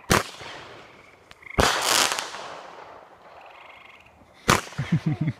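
Consumer firework artillery shells bursting: loud sharp bangs, one right at the start, a close pair about a second and a half later and another about four and a half seconds in, each trailing off in a long echoing decay. Near the end a quick run of short rising-and-falling pitched cries comes in.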